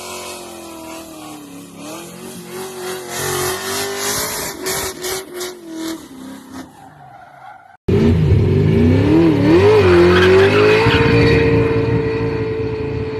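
Muscle-car V8 engine running with its pitch wavering up and down. After a sudden cut about eight seconds in, a louder V8 revs up, wobbles, then holds high revs steadily before easing off near the end.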